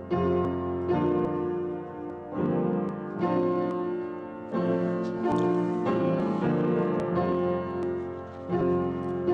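Solo piano playing slow, full chords, a new chord struck about once a second over held bass notes.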